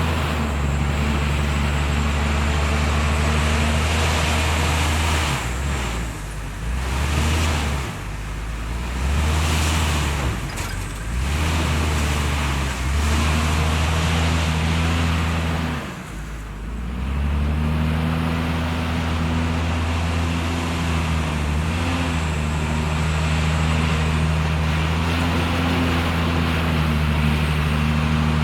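JCB 432ZX's diesel engine running steadily while loading sand. Its sound dips briefly several times, most deeply about 16 seconds in, then picks back up.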